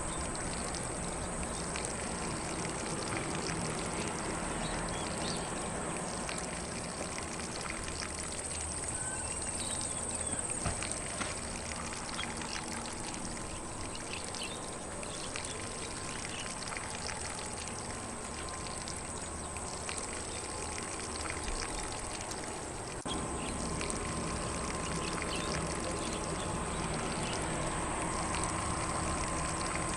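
Lawn sprinkler spraying water across grass, a steady hiss of water, with faint bird chirps now and then.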